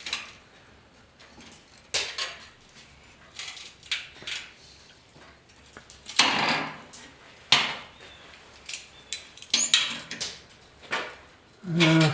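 Small steel pieces and a clamp being handled and set on a metal bench: scattered metallic clinks and knocks, the loudest about six seconds in.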